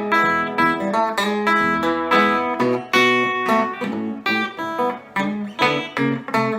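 Epiphone Casino hollow-body electric guitar played through a Vox AC15C1X valve amp on its Top Boost channel, picking a lively run of single notes and chords that ring briefly and decay.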